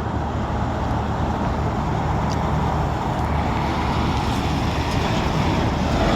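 Road traffic with heavy trucks running, a steady low rumble with no distinct passing vehicle.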